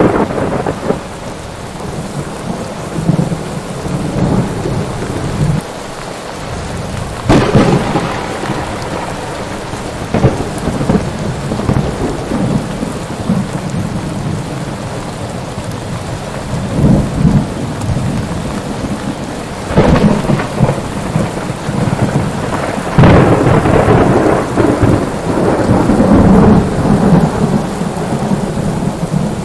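Thunderstorm: steady heavy rain with repeated thunder. Sharp claps come about 7 and 20 seconds in, and a louder clap at about 23 seconds rolls on into a long rumble.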